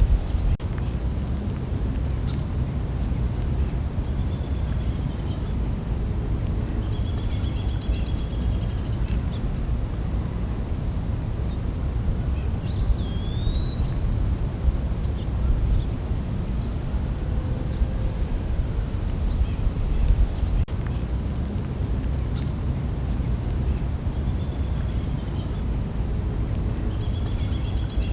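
Night-time insect chorus: a steady high-pitched insect whine, with crickets chirping in runs of short, evenly spaced pulses. A few brief bird calls come around 4, 8, 13 and 24–28 seconds in, over a steady low rumble.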